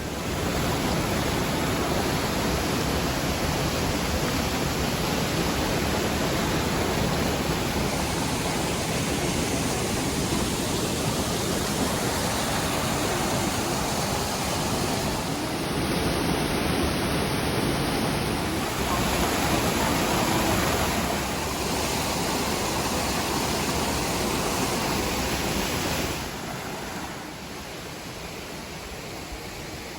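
Rushing water of a rocky mountain stream and its waterfalls, a steady loud roar that becomes noticeably quieter about 26 seconds in.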